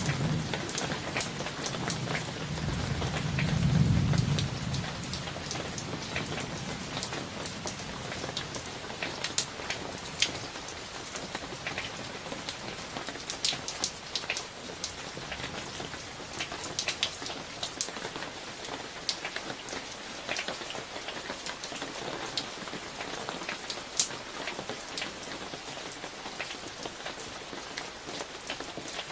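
Steady summer rain with many individual drops ticking close by. A low rumble of thunder swells over the first few seconds, peaks about four seconds in, then dies away under the rain.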